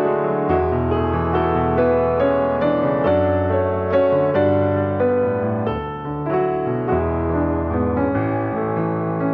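Piano music: slow, sustained notes over a low bass line that changes about once a second.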